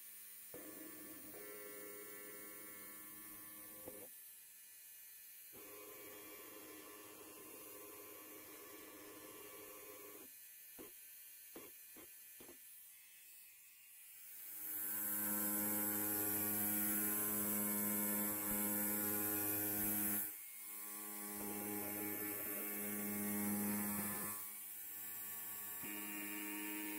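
Electric hair clipper running with a steady electric buzz, quieter at first and growing clearly louder about halfway through, with a brief drop shortly after.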